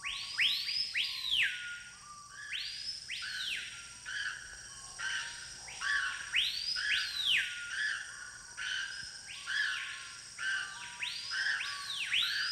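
Loud clear whistled bird calls. Each call sweeps up sharply and falls back down, and they come in overlapping pairs and threes about every second and a half.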